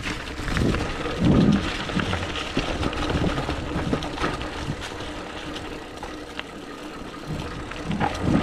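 Hardtail 29er mountain bike ridden fast down a dirt trail: tyres rolling over the ground with frequent rattles and knocks from the bike, and wind buffeting the microphone in low gusts.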